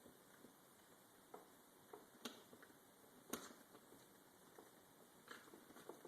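Near silence broken by about five faint clicks and light knocks, the loudest just past halfway: small chainsaw parts and hand tools being handled and fitted during reassembly of a Husqvarna 359 chainsaw.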